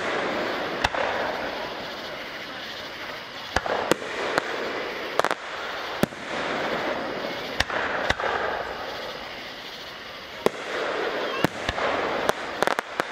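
Aerial fireworks shells launching and bursting overhead: about a dozen sharp bangs at uneven intervals, some in quick pairs.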